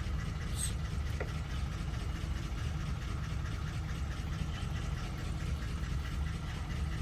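Steady low background hum, with a couple of faint small clicks about half a second and a second in.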